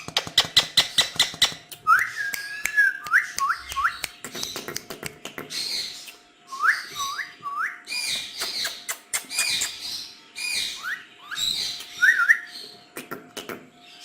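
Ringneck parrots calling: a rapid run of chattering calls, then short rising, hooked whistles in groups of three or four, mixed with harsh high-pitched squawks.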